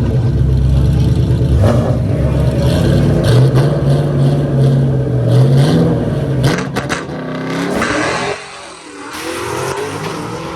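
Drag car engine running loud with a steady low note, a brief clatter about two-thirds of the way in, then the sound drops and a rising rev comes in near the end.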